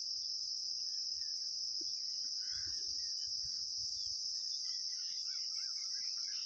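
Steady high-pitched chorus of crickets, with faint soft knocks from parts being handled a couple of seconds in.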